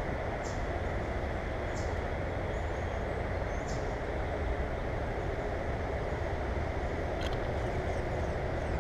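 Short, high chirps from small birds, about one a second, over a steady, even background noise.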